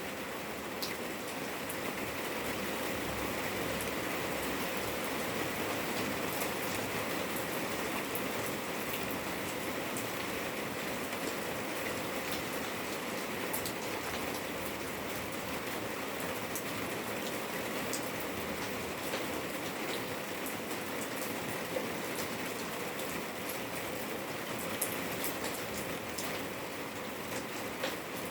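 Steady rain: an even hiss of rainfall with scattered sharp ticks of individual drops striking surfaces.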